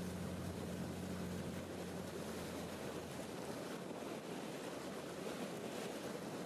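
Boat under way: a steady low engine hum under a rush of wind and water, the hum fading out about halfway through.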